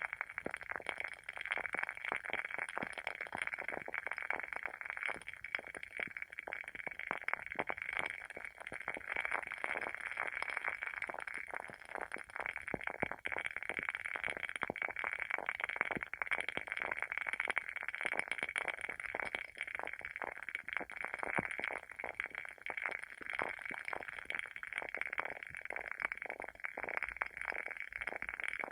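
Wooden candle wick crackling as it burns: a dense, irregular run of small pops and ticks.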